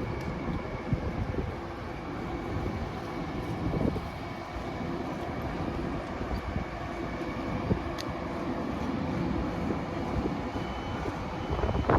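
Long Island Rail Road train running through a station: a steady low rumble with scattered clicks, and one sharp click about eight seconds in.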